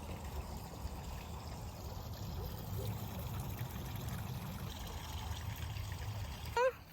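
A steady, low rushing noise that fades near the end as a baby gives a short rising whimper.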